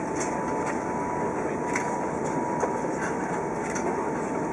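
Steady rushing cabin noise inside an Airbus A380 airliner on its landing, with a thin steady tone running through it and a few faint clicks.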